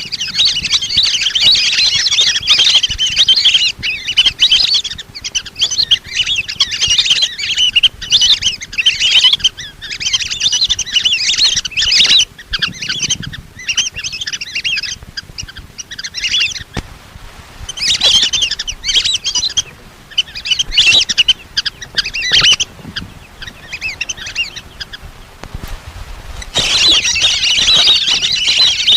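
A flock of lesser whistling ducks calling: many shrill, whistled chirps overlapping in dense bursts, with brief lulls about 17 seconds in and again around 24 seconds before the calling picks up strongly near the end.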